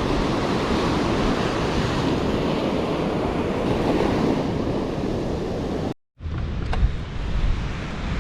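Gulf surf breaking and washing on the beach, with wind buffeting the microphone. About six seconds in, the sound cuts out for a moment and gives way to quieter outdoor noise with a few light clicks.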